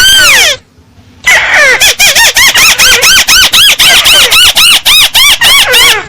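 Paddy-field crake (tikusan sawah) calling: one loud note that sweeps down, then about a second later a fast run of short arched notes, about four a second.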